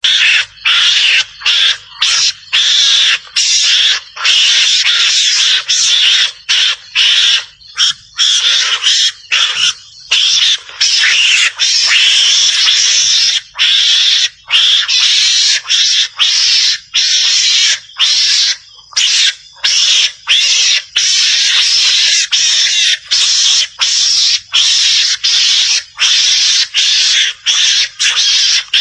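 Recorded calls of a garangan (Javan mongoose), harsh raspy chattering in runs of half a second to two seconds broken by short gaps, played back as a lure call for mongoose hunting.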